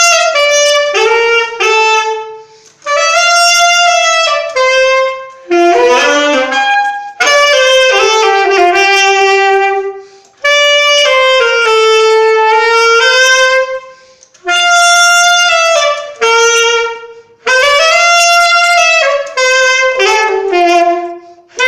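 Solo saxophone playing a slow melody unaccompanied, in phrases of a few notes broken by short pauses for breath.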